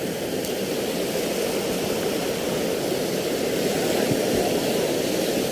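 Steady rushing wash of sea surf, an even noise that swells slightly over the few seconds.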